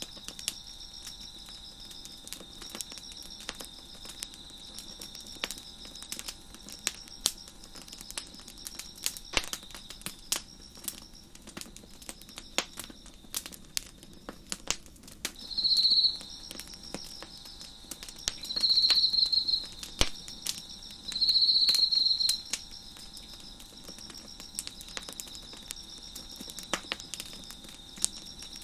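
Wood fire crackling with irregular sharp pops, over a steady chorus of crickets chirping. Around the middle there are three louder, second-long trills at the crickets' pitch.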